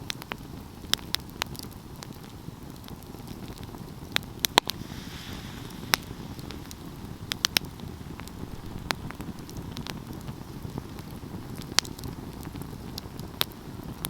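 Wood fire burning with a steady low rumble and irregular sharp crackles and pops of burning pine wood, a few of them in quick clusters.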